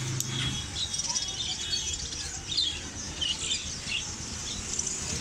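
Many caged small birds chirping at once, with short high chirps overlapping and scattered irregularly, over a steady low background murmur.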